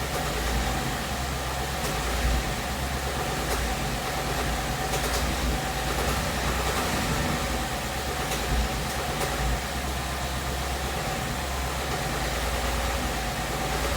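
2017 Ford Mustang GT's 5.0-litre V8 idling steadily, with a few faint sharp clicks at uneven spacing. The owner takes the light ticking/knocking from this engine for a fault that has developed since about 7,500 miles.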